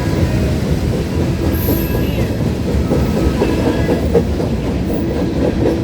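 Freight train cars rolling past, a steady low rumble with the wheels clacking over the rails and a few faint, brief wheel squeals.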